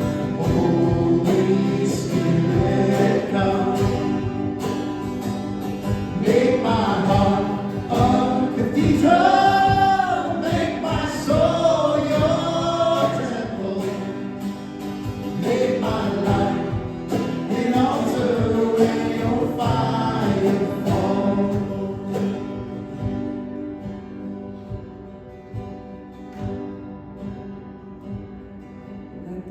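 Worship music: several voices singing together over a band, in a gospel, choir-like style. The singing is strongest through the middle and thins out and grows quieter toward the end.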